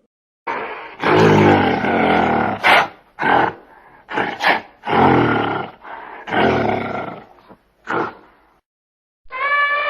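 A series of loud, low-pitched animal calls, about seven of them, separated by short pauses.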